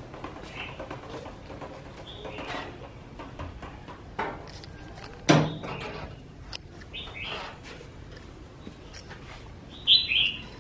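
Birds chirping now and then, a handful of short high calls, the loudest near the end. A single sharp knock about five seconds in, and light ticks and scrapes throughout.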